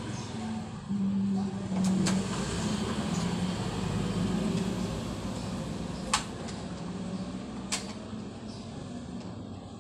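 A motor vehicle engine running steadily with a wavering hum, under a few sharp clicks.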